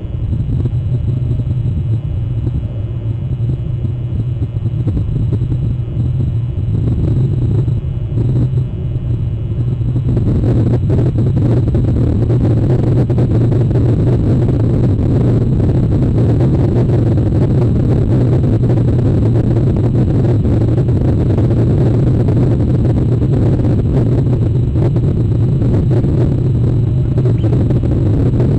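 Steady low rumble that grows rougher and louder about ten seconds in, with a hissing noise spreading over it.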